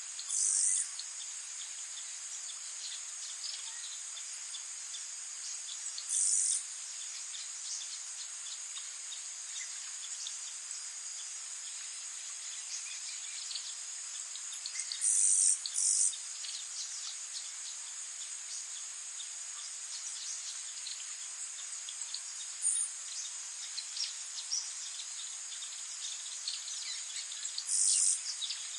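Steady high-pitched insect chorus with short, louder half-second buzzes: one near the start, one about six seconds in, two close together around the middle, and one near the end. Faint, scattered bird chirps run underneath.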